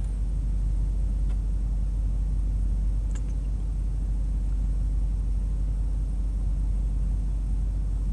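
2002 Dodge Durango's engine idling, a steady low rumble heard from inside the cabin.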